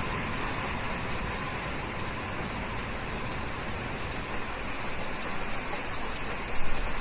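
Steady rain falling, a dense even hiss of drops, growing louder near the end.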